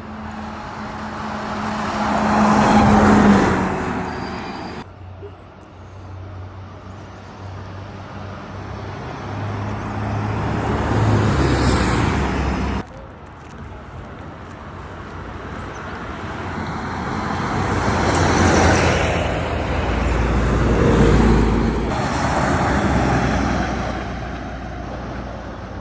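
Large buses driving past on a road, engine and tyre noise swelling and fading as each one passes, with a steady low engine hum between pass-bys. The sound changes abruptly twice, where separate clips are joined.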